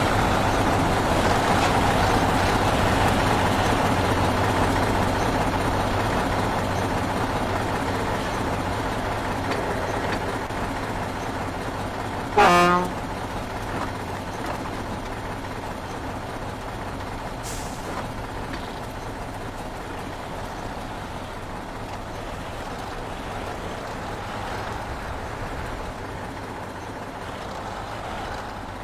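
Heavy truck engine running, slowly fading as it moves away, with one short horn toot about twelve seconds in.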